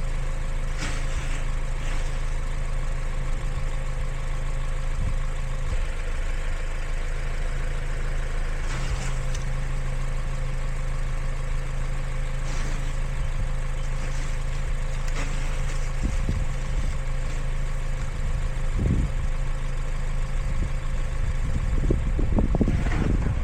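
A car engine running steadily, a low even hum, with a few faint knocks.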